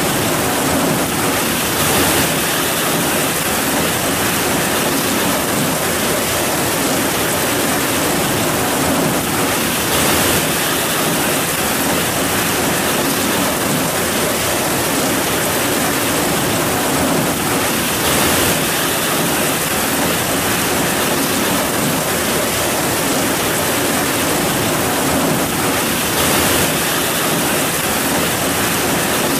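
Heavy rain falling in a steady, loud downpour, swelling briefly about every eight seconds.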